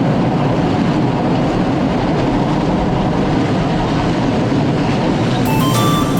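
A moving train running on the rails: a steady, loud rumble and rail noise. Music starts to come in near the end.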